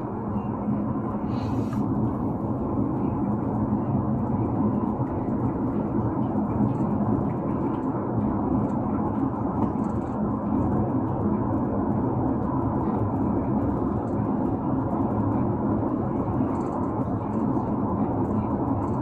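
Steady road and engine noise of a moving car, heard from inside the vehicle.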